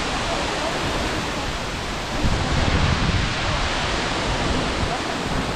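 Steady rushing roar of a large waterfall, the Wli (Agumatsa) Falls, crashing water heard as an even hiss with an uneven low rumble.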